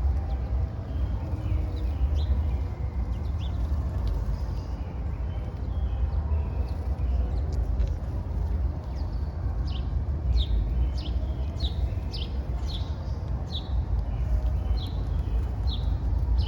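A small bird calling with short, sharp, downward-slurred chirps: a few early on, then a steady run of about two a second from a little past halfway. Under it runs a steady low rumble of city background noise.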